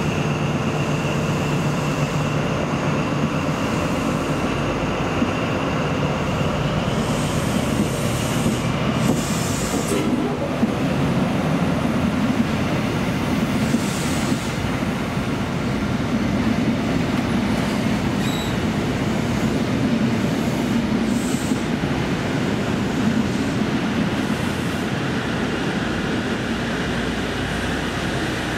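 East Midlands Trains HST Mark 3 coaches rolling past at speed, a steady, loud rush of wheels on rail. A faint high whine fades out in the first few seconds, and a few sharp clicks from the wheels crossing rail joints come later.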